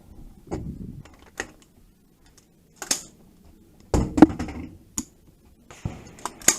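Metallic clicks and clacks of a firearm being handled, several separate sharp clicks with the loudest cluster about four seconds in.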